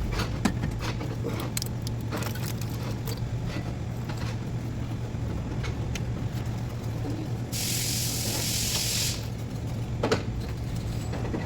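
Scattered light clicks and knocks of work on the engine over a steady low hum, then a spray hissing for about a second and a half near the end.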